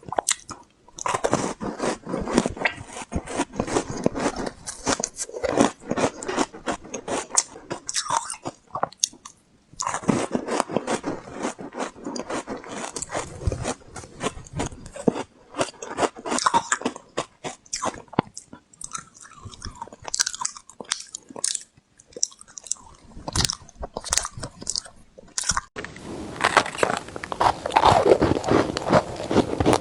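A person biting into and chewing refrozen honeycomb ice, with dense, close-up crackly crunching. There is a brief pause twice, and the crunching is thicker near the end.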